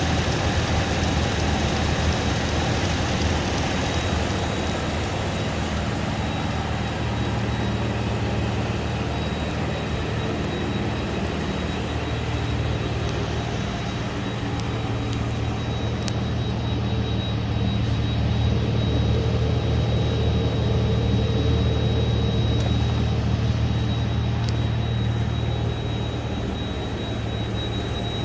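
2004 Toyota 4Runner's 4.0 L V6 engine running steadily at idle, with a thin steady high-pitched whine over it.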